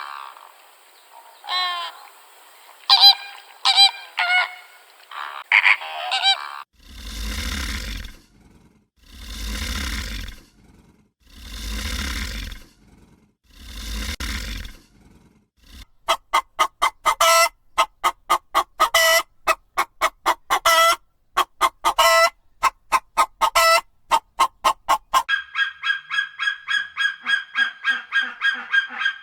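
A run of animal calls of several kinds in turn. First come short pitched calls, then four long breathy calls about two seconds apart, then rapid pulsed calls, and near the end a fast, steady trill.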